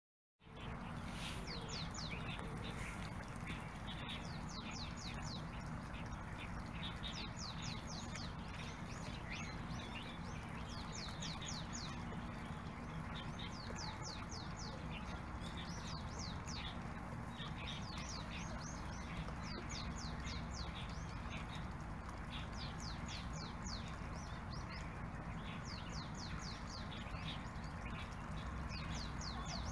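Small birds calling in quick series of short, high, sharp notes, a burst every few seconds, over a steady low background rumble.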